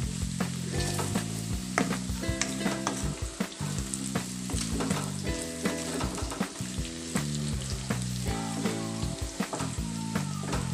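Sticks of taro sizzling as they fry in oil in a kadai, stirred and scraped with a wooden spatula, with sharp crackles and scraping knocks throughout. Soft background music plays underneath.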